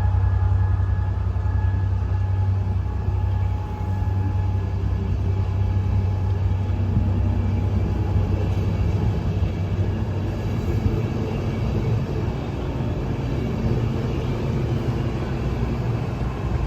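A train running at a railway station: a steady low rumble with a faint high whine that fades over the first few seconds.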